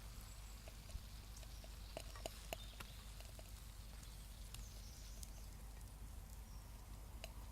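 Small wood cooking fire with bacon frying over it: faint scattered crackles and pops over a low hiss, a few sharper pops in a cluster about two to three seconds in.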